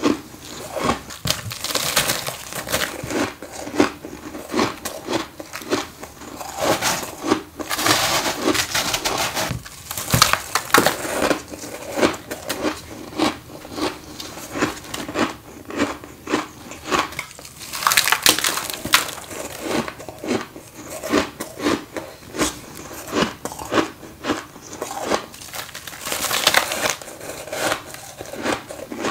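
Repeated close-miked bites into soft freezer frost grown from humidifier mist, each bite a dense, crisp crunch of many tiny cracks, with heavier bursts every few seconds.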